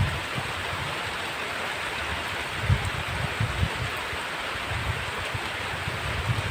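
Heavy rain falling steadily as a dense even hiss, with brief low gusty rumbles mixed in around the middle.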